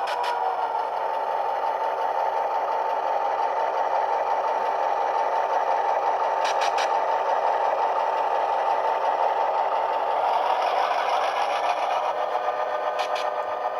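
HO-scale E7 diesel model's DCC sound decoder playing diesel engine sound through its small speaker as the locomotive runs, with the model's motor and wheels running underneath. Short bursts of clicking come three times, about six seconds apart.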